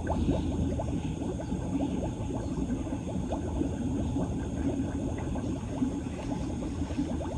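Floodwater gurgling and bubbling steadily as it drains away down a street storm drain.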